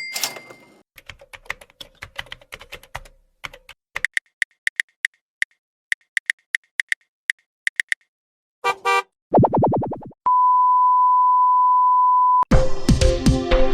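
A run of short stock sound effects one after another: a sharp bright click, scattered typing-like ticks, a quick regular series of short high beeps, a brief buzz, then a steady high beep held about two seconds, like a censor bleep. Near the end a loud ringing chord strikes and sustains.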